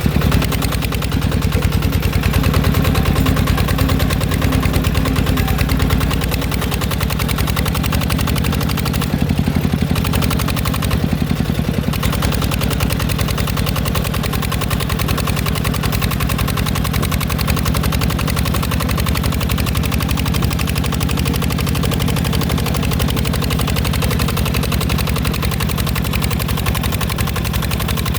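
Mecatech 14 hp small tractor's engine running steadily with a rapid, even pulsing beat, its pitch settling slightly lower about six seconds in.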